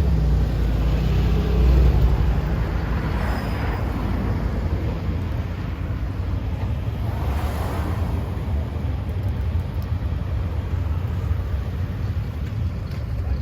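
Cars driving slowly past with a steady low engine and exhaust rumble, loudest about two seconds in, with a couple of brief swells as vehicles pass.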